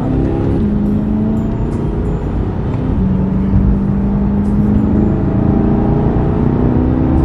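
Chevrolet C8 Corvette Stingray's 6.2-litre V8 heard from inside the cabin while driving, its note climbing slowly in stretches and holding steady in between as the car gathers speed.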